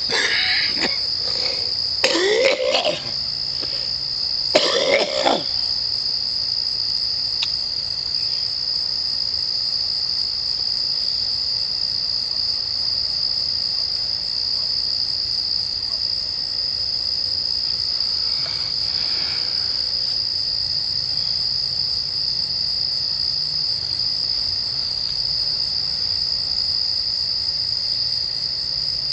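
A cricket chorus trills steadily in one continuous high tone. Two short coughs break through a couple of seconds in and again about five seconds in.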